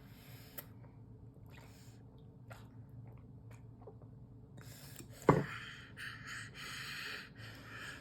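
A baby eating, with small mouth clicks and smacks. A single sharp knock comes a little past five seconds in, followed by a run of quick breathy pants and gasps about every half second.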